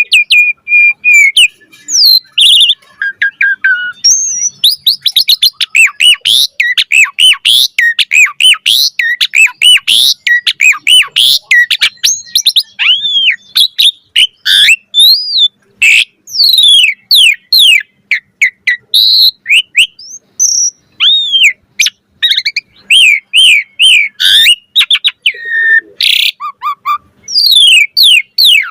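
Asian pied starling (jalak suren) in loud, sustained song: a rapid, varied run of whistles, chirps and harsh notes sweeping up and down, with only brief pauses.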